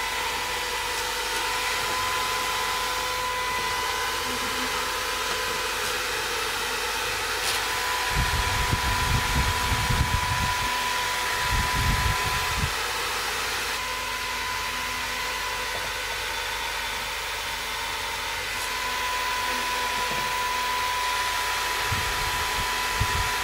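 Small DC-motor fans of a homemade air cooler running steadily, a whirring rush of air with a thin motor whine. Low rumbling comes in for a few seconds about a third of the way through.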